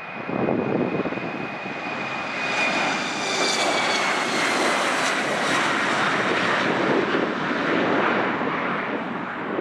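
An airliner's engines passing close by with a loud, steady rush. A high whine slowly falls in pitch as the aircraft goes past.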